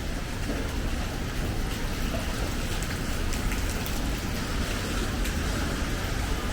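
Steady rain falling, with scattered light drop ticks over an even hiss, over a low rumble.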